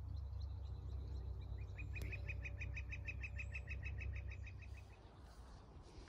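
A songbird singing a trill: a fast, even run of about two dozen short notes, roughly eight a second, starting about a second and a half in and lasting about three seconds. Fainter high chirps come before it, and a steady low rumble runs underneath.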